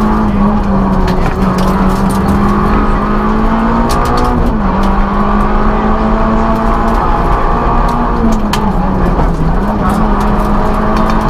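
Citroën Saxo N2 rally car's 1.6-litre four-cylinder engine running hard at high revs, heard inside the cabin. The engine note holds steady, drops in pitch about four and a half seconds in, and dips and comes back up again near nine seconds, with scattered sharp clicks over it.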